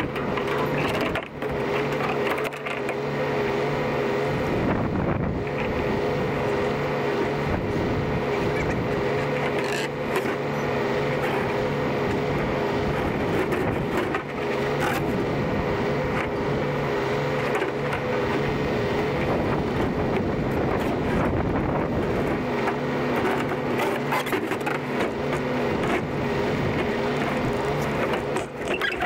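A vehicle engine idling steadily, with a few short knocks and scrapes.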